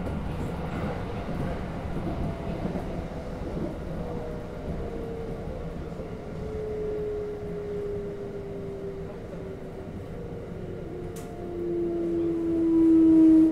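Kintetsu electric local train running, heard inside the cab: a steady low rumble from the wheels on the track, with the electric motor whine sliding slowly down in pitch as the train slows toward a station. The whine grows louder near the end.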